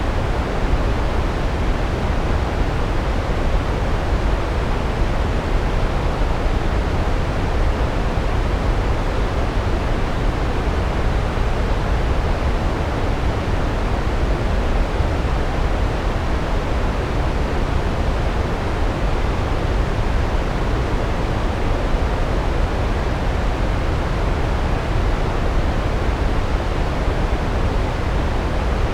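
Large waterfall: a steady, unbroken rush of falling water with a deep low rumble.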